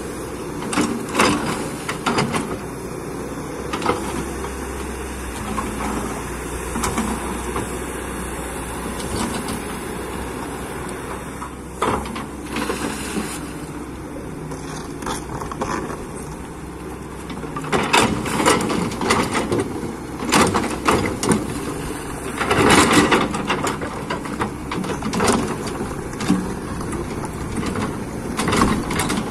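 Hydraulic excavator's diesel engine running steadily while it works the ground, with repeated short knocks and clanks, densest about two-thirds of the way through.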